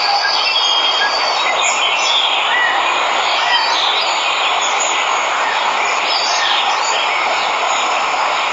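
Waterfall rushing in a steady, even hiss, with birds giving short chirps and whistles over it several times.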